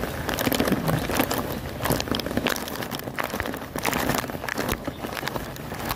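Heavy rain falling, with many irregular close taps and crackles of drops striking nearby.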